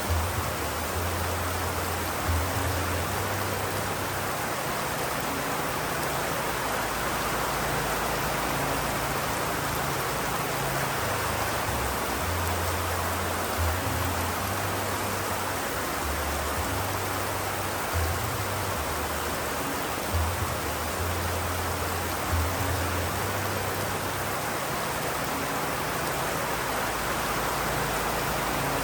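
Steady heavy rain, an even hiss of drops, with a low rumble underneath that comes and goes.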